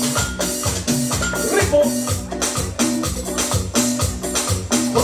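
Cumbia played live on an electronic keyboard: a steady, even cumbia beat under a bass line and a repeating keyboard melody, with no singing yet.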